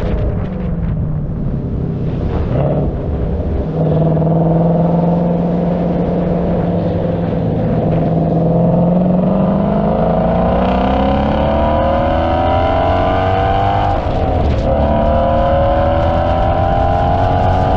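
Car engine pulling under steady load: its note holds level for a few seconds, then rises slowly as the car gathers speed, with a brief break about fourteen seconds in before it climbs again.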